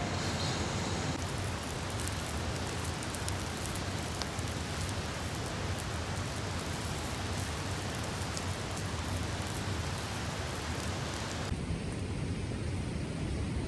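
Campfire burning: a steady hiss with scattered small crackles and pops. The background changes abruptly about a second in and again near the end.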